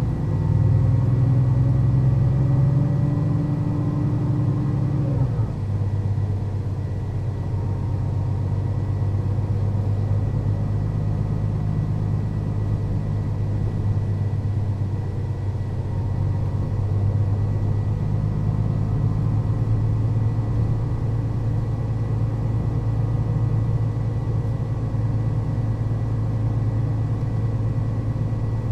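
Mercedes-Benz O 530 Citaro city bus's diesel engine with its ZF gearbox, driving: the engine pitch climbs, drops sharply about five seconds in, then runs fairly steady with slow rises and falls. A faint steady high whine runs underneath.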